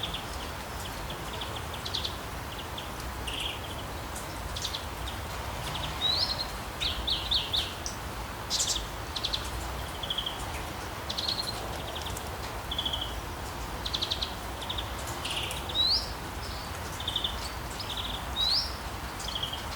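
Birds chirping and trilling: short high calls and rapid trills come every second or so, some sweeping quickly up in pitch, over a steady low background rumble.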